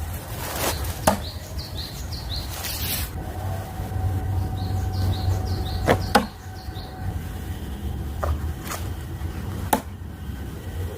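Throwing knives striking a wooden target: several sharp impacts a few seconds apart, two of them close together near the middle. Birds chirp in the background over a steady low rumble.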